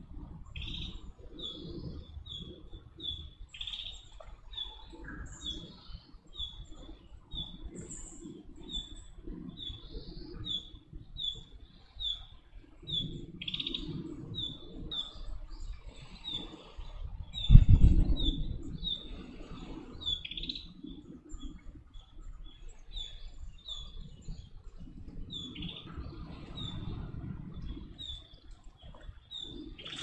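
A small bird chirping over and over, short high chirps about two a second, with patches of low rumble and one loud low thud about two-thirds of the way through.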